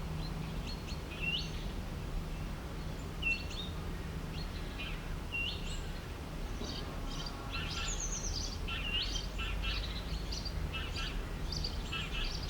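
Wild birds calling: short, hooked whistled notes repeated every second or two, joined about halfway through by several birds chirping at once. A low steady hum runs underneath.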